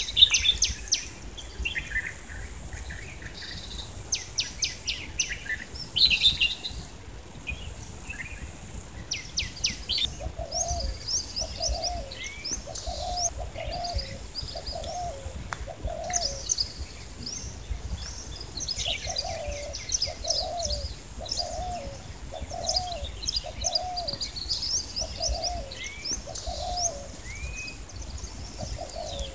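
Birds calling outdoors: high chirps and twitters throughout, and from about ten seconds in a dove cooing in evenly repeated low notes, in phrases.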